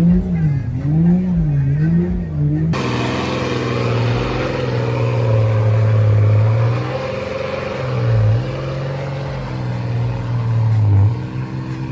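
Diesel pickup engine revved up and down in a steady rhythm, then, after an abrupt change about three seconds in, held at high revs with a loud hiss over it. The revs dip briefly about eight seconds in and ease near the end.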